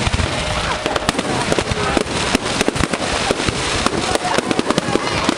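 Firework display: dense, continuous crackling with many sharp bangs in quick succession.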